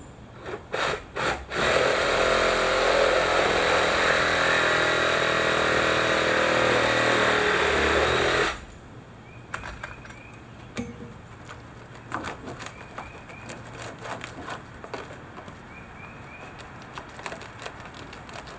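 Reciprocating saw cutting wood: three short blips, then one steady cut of about seven seconds that stops suddenly. Afterwards scattered light knocks and small bird chirps.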